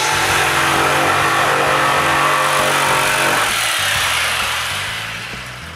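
Electric power saw running and cutting into a pine plank. Its motor hum stops a little past halfway, and the sound dies away over about two seconds.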